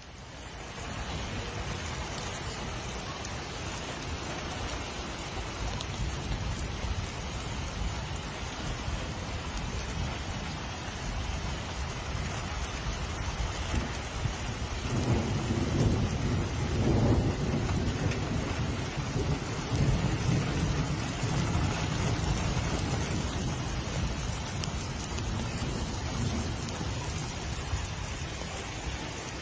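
Heavy rain falling steadily, with a low rumble of thunder building about halfway through and rolling on for several seconds.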